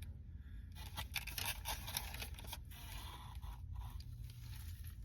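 Faint crackly scraping and tearing as a fried mozzarella stick is pulled apart to stretch the cheese, with small rustles from the takeout container.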